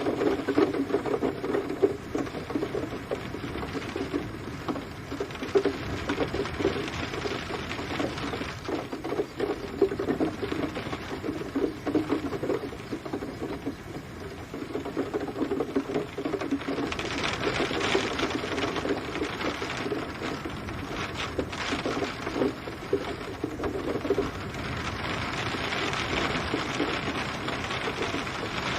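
Rain drumming on a hard surface: a dense, rapid patter of drops that rises to a heavier hiss of rainfall about 17 seconds in and again near the end.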